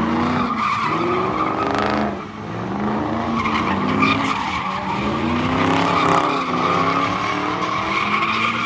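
Car doing donuts or drifting: the engine revs up and down over and over while the tires squeal and skid on a grippy pad, with a brief lull about two seconds in.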